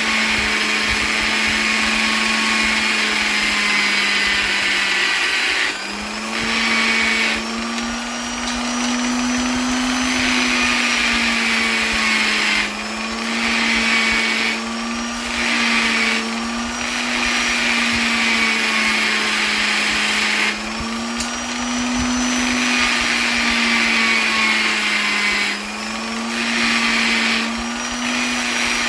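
Electric polisher running continuously with a steady motor hum whose pitch wavers slightly up and down. A hiss rides over the hum and briefly dips every few seconds.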